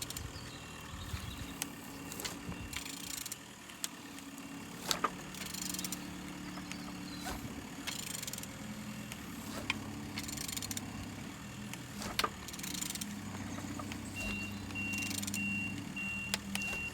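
Removed engine being turned over by hand: a series of short hissing, scraping strokes about every second or so, over a steady low machine hum. An evenly repeating beep starts near the end.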